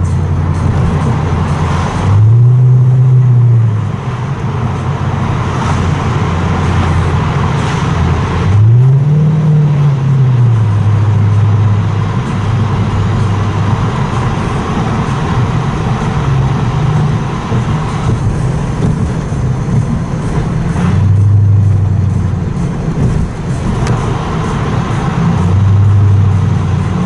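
Toyota Crown Majesta V8 through a full-straight exhaust with a Margay rear muffler, droning loudly and echoing in a tunnel. It revs up and back down twice, about two seconds in and again about nine seconds in, and swells briefly twice near the end.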